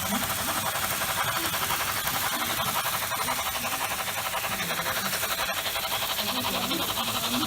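Märklin model train running on the layout's track: a steady, rapid whirring rattle of the small motor and wheels, with faint voices in the background.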